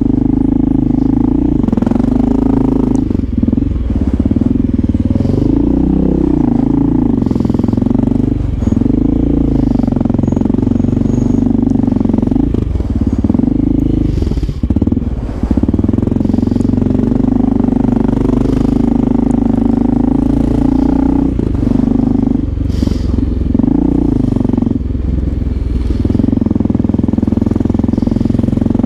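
Motorcycle engine running at low speed in traffic, its pitch rising and falling with small throttle changes, easing off briefly about halfway through.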